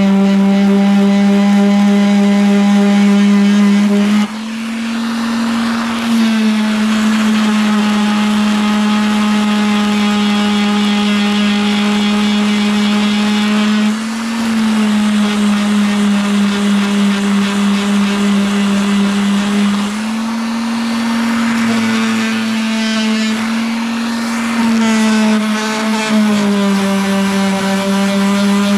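Electric power sander running steadily on a wooden dresser, stripping old stain, its motor hum shifting slightly in pitch several times as the pressure on the pad changes.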